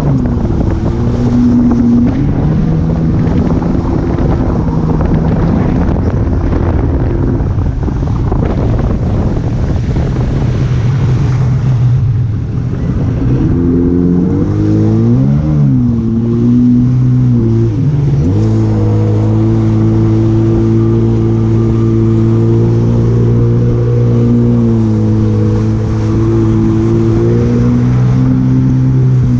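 Jet ski engine running under way with wind and water rush. Its pitch dips and climbs a few times around the middle as the throttle is eased and opened, then holds steady.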